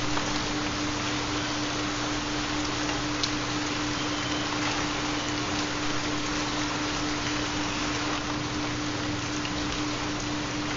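Steady rain sound with a steady low hum underneath, the tone of a 4 Hz theta binaural beat.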